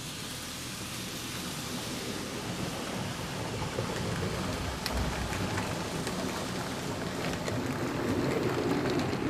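HO-scale model train running on the layout's track: a steady rolling rumble of small wheels on rail with a few light clicks, slowly growing louder as it comes closer.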